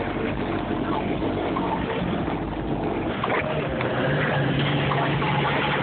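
Bass-heavy music played loud through a car's two 12-inch subwoofers, a Sony Xplod and a Boss Phantom dual-voice-coil sub in a sealed box, heard as a steady, dense rumble.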